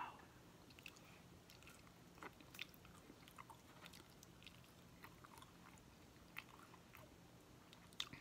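Faint eating sounds: rotisserie chicken skin being chewed, with scattered small wet mouth clicks throughout.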